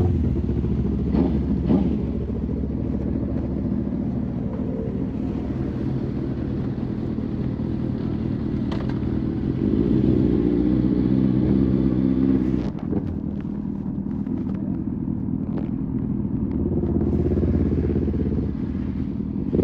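Motorcycle engine running under way at steady revs, with rushing noise. It pulls louder about halfway through, drops off sharply about two-thirds of the way in, then builds again near the end.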